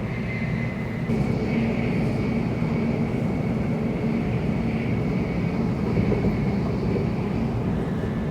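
Steady running noise heard inside a Tokaido Shinkansen passenger car: a low rumble with a faint high whine.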